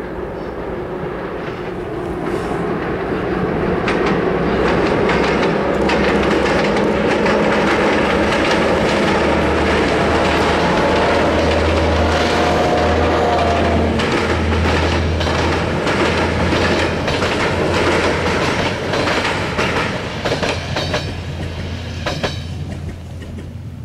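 Diesel-hauled passenger train crossing a steel girder viaduct: a steady low engine drone with the coaches' wheels clattering over the rail joints, and a brief thin wheel squeal around the middle. The sound builds over the first few seconds and fades near the end as the train passes.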